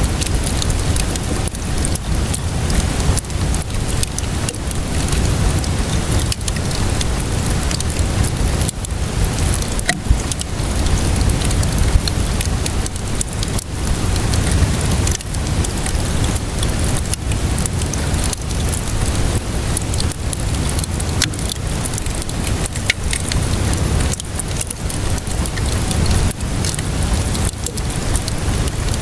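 Steady rainfall mixed with a crackling fire, with many small pops and snaps throughout and a low rumble underneath.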